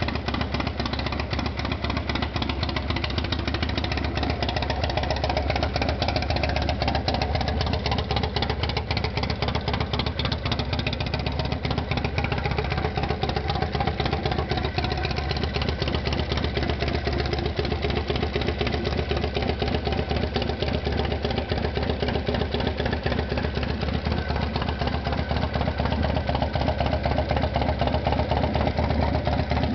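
98-cubic-inch Evo air-cooled V-twin of a bobber chopper idling steadily, with an even, rapid exhaust pulse and no revving.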